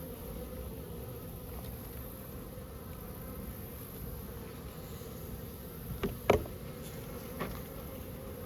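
Honeybees buzzing steadily around an opened hive. A few sharp clicks about six and seven seconds in, the loudest just after six seconds.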